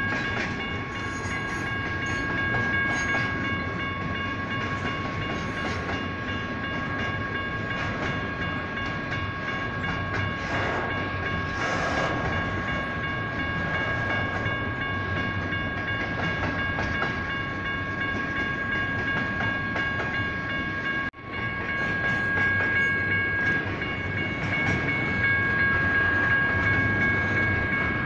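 A train rumbling and clattering past a grade crossing while the crossing's electronic warning bells ring on with steady high tones. The sound drops out briefly about three-quarters of the way through, then carries on.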